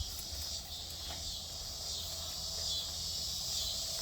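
Chorus of cicadas (locusts) giving a steady, high-pitched, hissing drone that swells slightly toward the end.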